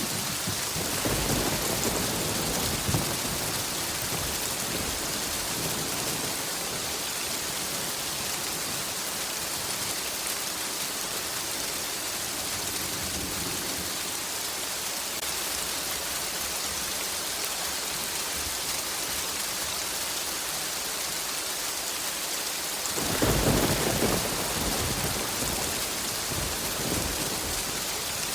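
Steady heavy rain with two rolls of thunder. One low rumble comes about a second in, and a louder one breaks suddenly near the end and fades over a few seconds.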